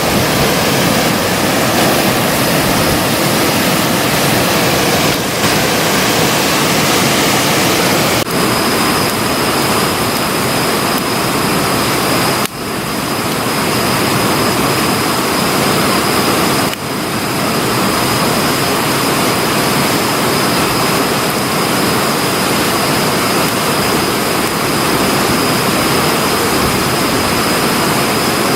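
Steady, loud rushing noise with no distinct pops. From about a third of the way in, a thin, steady high-pitched tone runs beneath it, and the sound changes abruptly at a few edit cuts.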